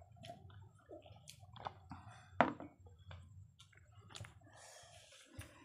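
Close-up eating sounds of biryani being eaten by hand: chewing, wet mouth smacks and small clicks. One louder click comes about two and a half seconds in.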